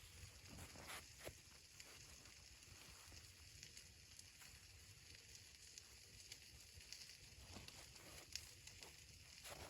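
Near silence, with a faint low rumble and a few scattered faint ticks.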